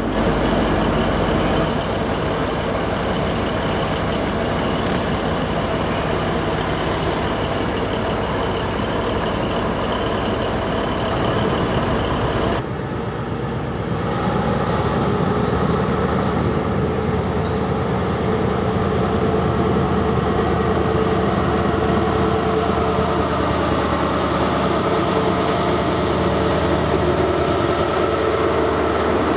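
Freight wagons behind a Class 66 diesel rolling past with steady wheel and running noise. The sound cuts off abruptly about halfway through and is followed by a First Great Western HST's Class 43 power car passing close by, its diesel engine running with a steady hum over the wheel rumble.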